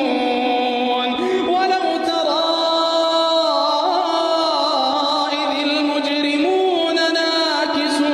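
A solo voice chanting a slow, ornamented Middle Eastern-style melody: long held notes joined by gliding turns, with no accompaniment or beat.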